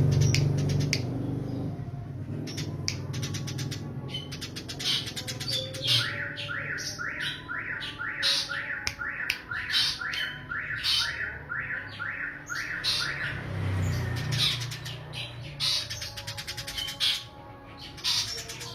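Eurasian tree sparrows squawking and chirping in a fight: harsh, rapid calls throughout, with a run of rising notes about two a second in the middle.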